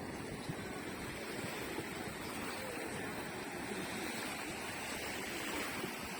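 Sea surf washing steadily against the shore.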